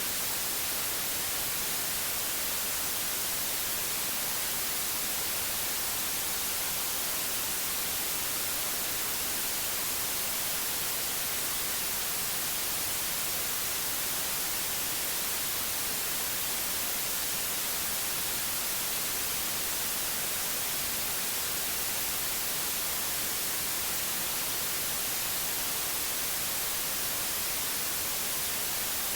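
Steady white noise: a constant, even hiss that never changes in level or character.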